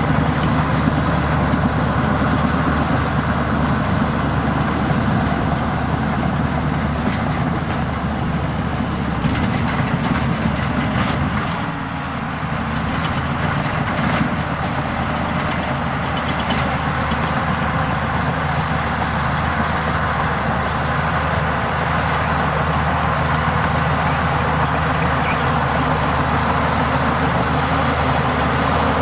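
Heavy earthmoving machinery's engine running steadily and loudly, easing off briefly about twelve seconds in. Scattered metallic clanks come through the middle stretch.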